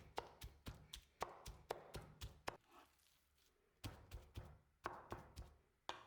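Faint, irregular taps and knocks from kitchen food preparation, two or three a second, stopping for about a second midway.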